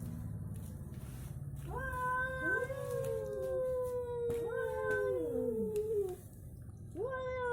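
Two cats, an orange cat and a tabby, yowling at each other in a standoff. Long drawn-out wails overlap, several starting from about two seconds in, some sliding down in pitch as they end.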